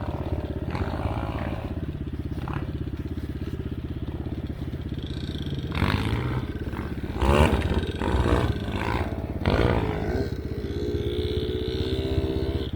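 Enduro dirt bike engine running at low revs, with the throttle blipped into short rising revs three times, about six, seven and a half and nine and a half seconds in, then held steadier near the end while riding through snow.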